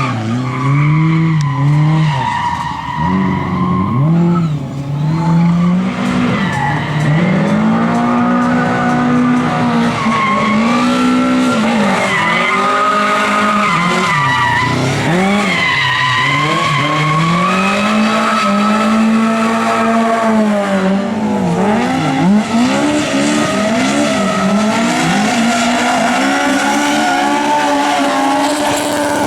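Lada race car engines revving hard and backing off over and over, the pitch climbing and dropping every couple of seconds as they are driven on track.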